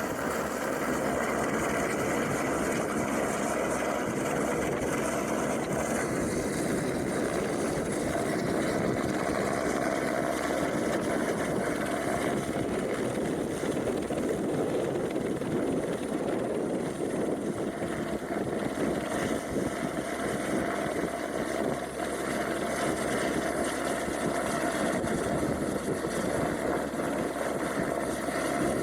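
AS350 single-turbine helicopter running steadily, its turbine and rotor noise continuous and even throughout.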